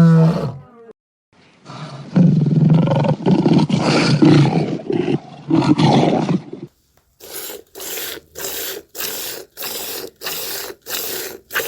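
A large animal roaring, a long rough call lasting about five seconds, after the end of a pitched call. It is followed by a run of even rasping strokes, about two or three a second.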